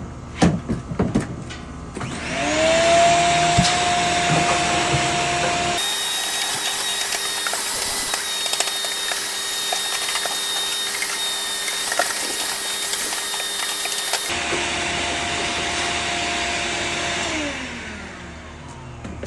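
A vacuum cleaner sucking ash out of the inside of a Traeger pellet grill. After a few knocks, its motor spins up with a rising whine, runs steadily with small clicks of debris, and winds down with a falling tone near the end.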